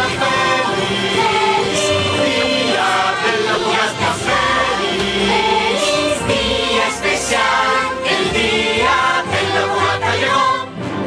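Group of voices singing together in a choral passage over orchestral instrumental backing, a festive cartoon musical number.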